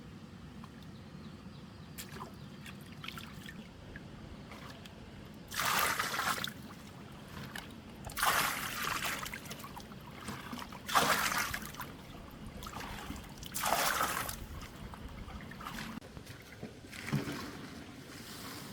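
Water splashing and sloshing in five separate bursts, roughly every three seconds, over a faint steady background.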